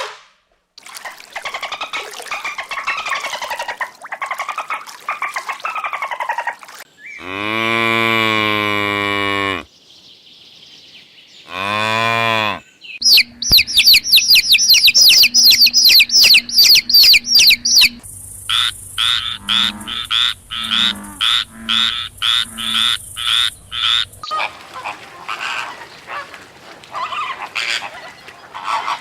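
A run of different animal calls, one after another: two long, low moos from a cow near the middle, then rapid high calls repeated several times a second, followed by a pulsing train of calls.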